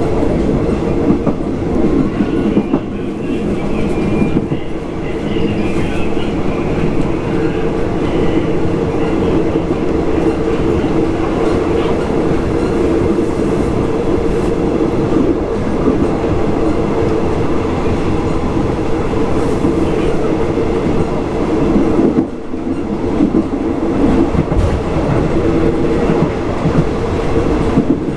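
Thai Railway ordinary passenger train running along the line, heard from a third-class coach: a loud, steady rumble of wheels on rails with a constant hum, easing briefly about two-thirds of the way through.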